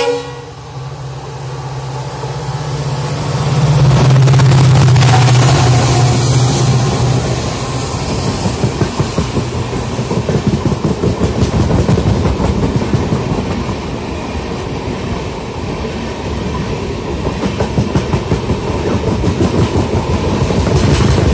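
A passenger train passing close by on the next track: the locomotive's low hum swells and peaks a few seconds in, then the LHB coaches run past with a rhythmic clickety-clack of wheels over rail joints.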